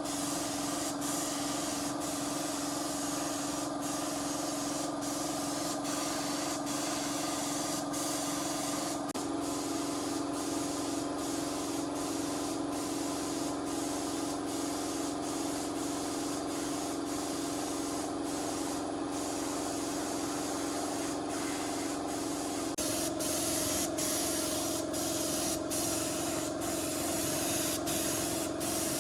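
A steady spray hiss over the steady hum of a motor, whose pitch shifts slightly twice.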